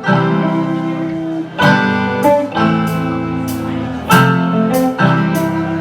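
Instrumental opening of a song: a guitar strumming chords, with a sharp strum every second or so and the chords ringing on between them.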